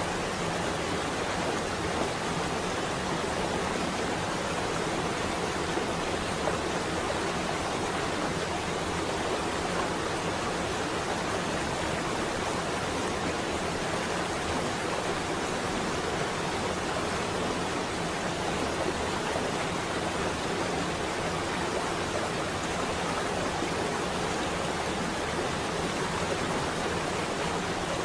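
Steady rain falling, an even, dense hiss that does not change.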